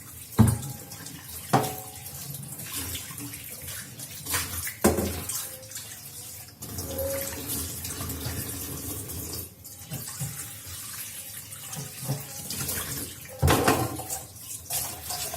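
Water running from a kitchen tap into a sink, with several sharp knocks and clatters of things being handled in it, the loudest about half a second in and near the end.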